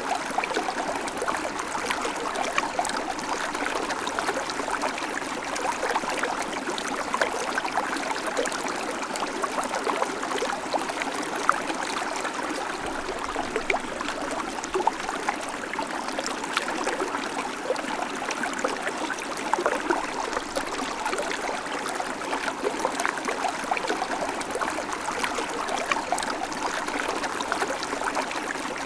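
A babbling creek: shallow water running and splashing steadily over stones, with a constant patter of small gurgles and splashes.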